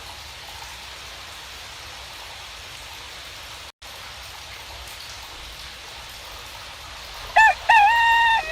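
Steady hiss of falling rain, cutting out for an instant a little before four seconds in. About seven seconds in a rooster starts crowing, the loudest sound.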